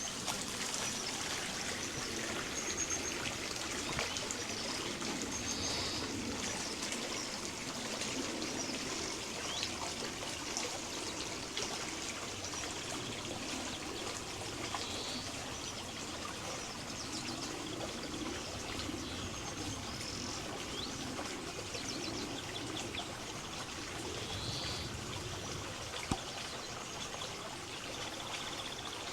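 River water trickling and burbling steadily over stones, with short bird chirps heard now and then above it.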